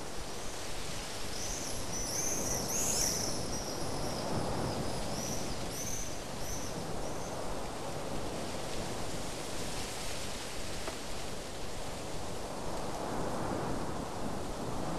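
Steady outdoor ambient noise with a small bird chirping several times, short high calls that stop about halfway through.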